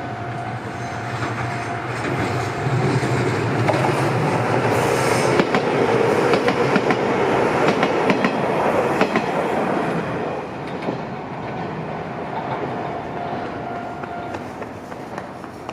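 Izuhakone Railway Sunzu Line electric train passing over the level crossing, its wheels clattering over the rail joints. It grows louder, is loudest about halfway through, then fades as it moves away.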